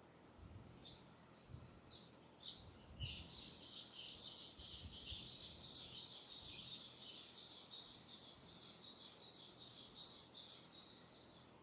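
A bird singing faintly from a distance: a few separate high notes, then from a few seconds in a long run of quick, evenly repeated high notes, about three a second, that stops shortly before the end.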